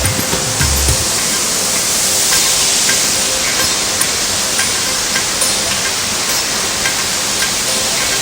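Waterfall rushing: a loud, steady hiss of falling water. Low beats of background music fade out within the first second.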